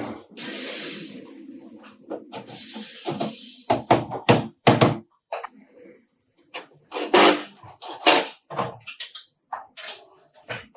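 Two short bursts of compressed-air hissing from a shop air tool, followed by a series of sharp knocks and clatter from tools and parts being handled.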